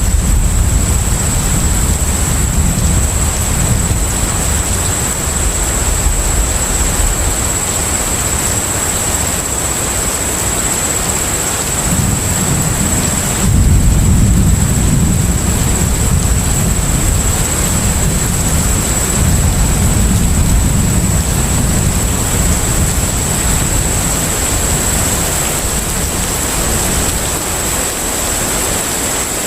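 Ship-at-sea ambience: a continuous hiss of wind and water with a deep low rumble that swells and eases several times, and a thin steady high whine over it.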